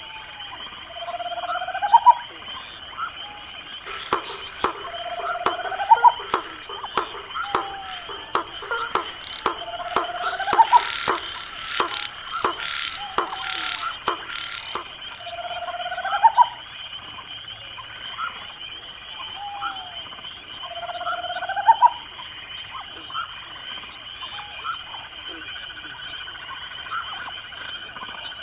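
Night ambience of crickets trilling in a steady, unbroken high chorus, with an animal's short rising call repeating about every five seconds and a scatter of sharp clicks in the middle.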